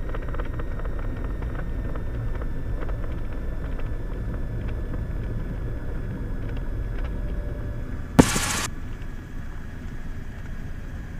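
Cessna Skylane's piston engine and cabin noise, a steady low drone on the cockpit headset audio. About eight seconds in, a short burst of radio static cuts in, and after it the drone is a little quieter.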